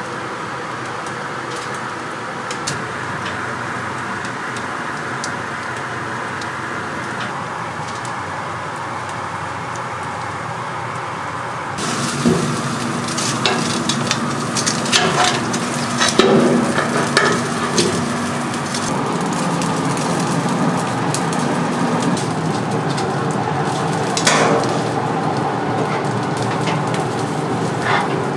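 Kitchen cooking noise: a steady hiss, then after an abrupt change about twelve seconds in, louder sizzling and crackling with many sharp clicks and knocks.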